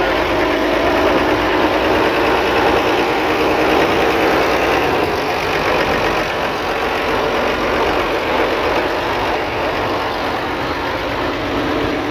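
Vintage tractor engine running steadily, with a slight swell about four seconds in.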